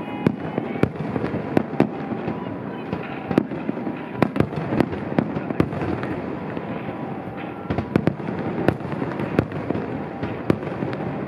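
Aerial fireworks shells bursting in rapid succession: sharp bangs about every half second over a continuous dense crackle and rumble.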